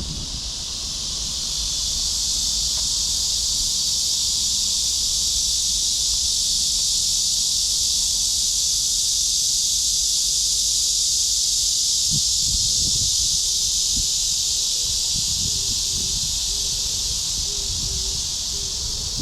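A chorus of cicadas buzzing steadily in a shrill, high drone that swells over the first couple of seconds and then holds.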